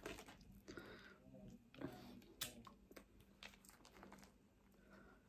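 Quiet, close-up eating sounds: chewing with small mouth clicks while chips are picked up and folded into a slice of bread, with one sharper click about two and a half seconds in.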